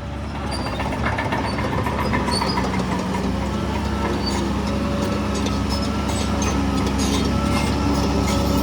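Heavy diesel engine of earthmoving machinery working, getting louder over the first couple of seconds and then running steadily, with scattered metallic clanks and rattles.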